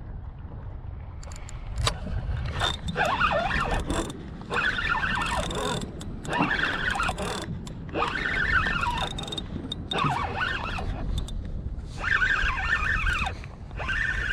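Penn Fierce III spinning reel being cranked in repeated bursts of about a second, each with a wavering whine, with short pauses between, as a heavy, unresisting catch (a turtle) is reeled in.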